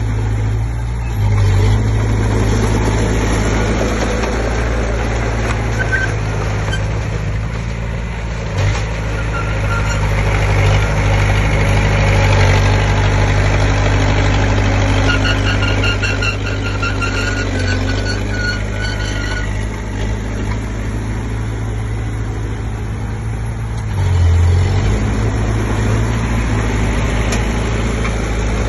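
Komatsu D20P bulldozer's diesel engine running steadily while working soil, with a brief rise in loudness about 24 seconds in.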